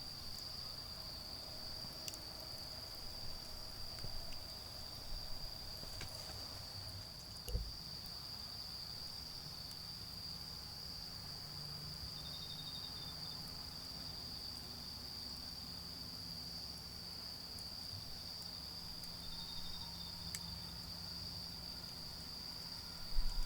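Autumn insects trilling in one steady high-pitched note, with a few faint crackles from the charcoal fire and a low hum of distant traffic underneath.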